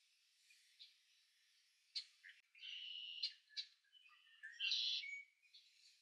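Several bird calls over faint hiss: a sharp note about two seconds in, a held call broken by short sharp notes around three seconds, and a louder call near five seconds.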